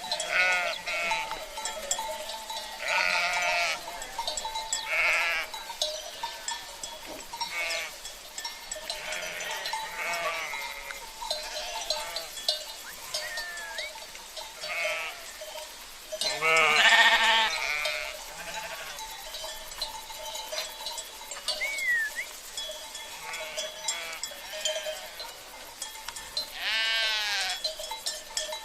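A flock of sheep bleating again and again, overlapping calls near and far, with the loudest bleat a little past halfway. Sheep bells (cencerros) clink steadily underneath.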